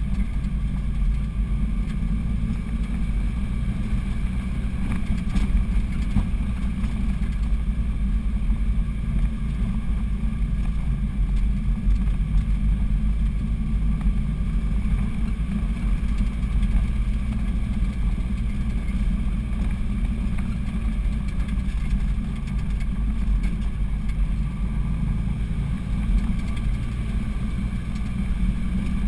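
Vehicle engine running under load on an uphill drive, a steady low drone with road noise, heard from inside the cab.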